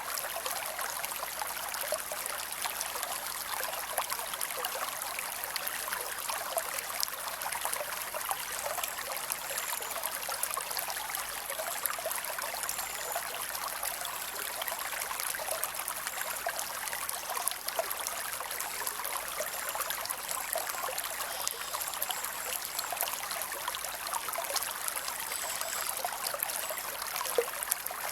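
Summer creek flowing steadily, a constant rushing and trickling of water with small scattered splashes.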